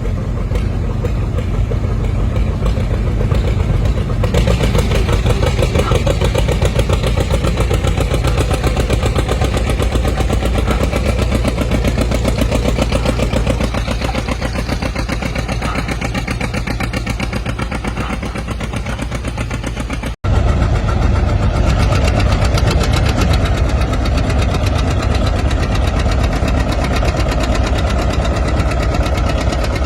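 Antique tractor engine running steadily with rapid, even exhaust beats. The sound cuts out for an instant about two-thirds of the way through, then the engine carries on.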